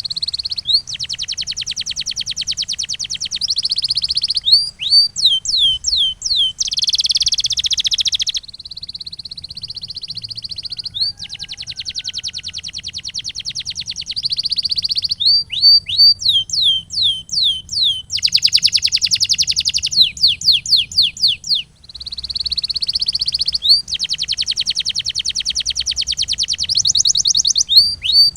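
Canary singing: long, fast rolling trills alternating with runs of sharply falling whistled notes, about four a second.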